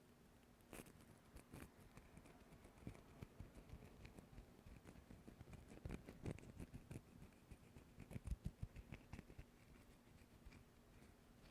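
A run of light, irregular taps, clicks and scratches close to the microphone, as from fingers handling and tapping small objects, quickest and loudest in a cluster near the end.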